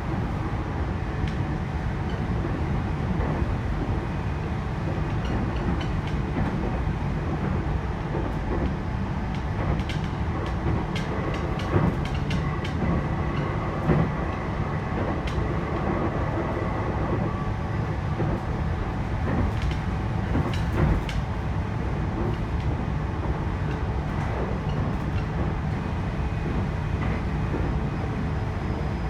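Running sound inside a JR E129 series electric multiple unit motor car at speed: a steady rumble of wheels on rail with occasional sharp clicks. A faint steady traction-motor whine rises above it in the middle.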